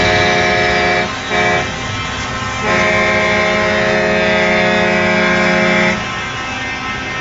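Multi-tone air horn on a Scania R620 truck sounding a chord in three blasts: one ending about a second in, a short one just after, and a long one of about three seconds. The truck's engine runs steadily underneath and is left alone once the last blast stops.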